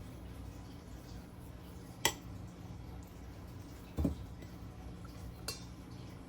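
A few knocks of kitchen utensils and a metal pan: a sharp click about two seconds in, a duller knock about four seconds in and a lighter click near the end, over a steady low hum.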